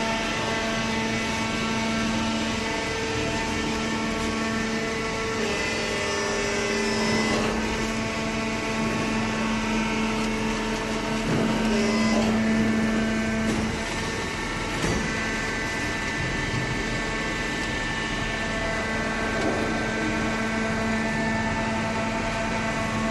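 Hydraulic baling press running: a steady motor-and-pump hum with a few faint knocks.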